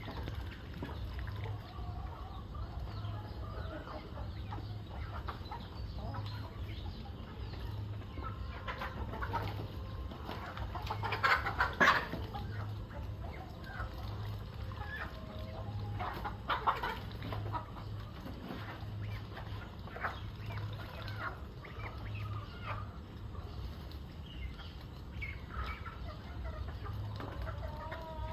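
A flock of chickens clucking with many short, scattered calls, with two louder flurries near the middle. A low steady hum runs underneath.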